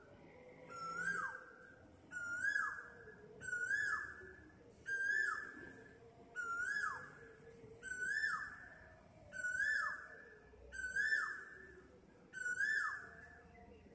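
A bird calling over and over in the dawn quiet: ten matching whistled notes, about one every second and a half, each holding briefly and then dropping sharply in pitch at the end.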